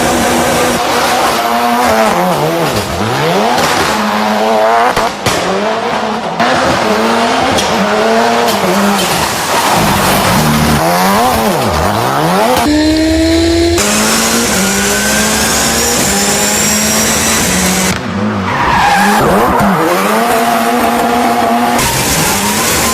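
Drift cars sliding with tyres squealing, the engines held at high revs that repeatedly drop and climb again as the drivers feather the throttle and kick the clutch. The sound changes abruptly several times, as from one car or pass to another.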